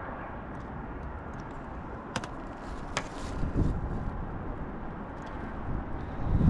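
Hand work on a metal roof while sealant goes on a roof-stack boot: two sharp clicks, about two and three seconds in, and a low thump near the end, over a steady background rush.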